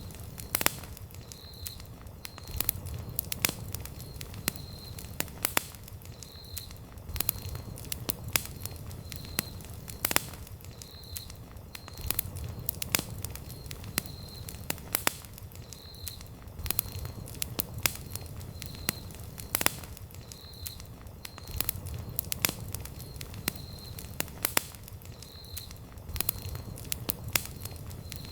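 Wood campfire burning: sharp pops and crackles at irregular intervals over a low steady rumble of the flames. A faint high chirp repeats about once a second underneath.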